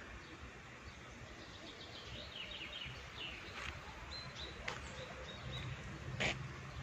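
Outdoor background noise with small birds chirping: a quick run of short falling notes a couple of seconds in, then a thin high note. A low rumble comes in near the end, along with a few sharp taps, the loudest just before the end.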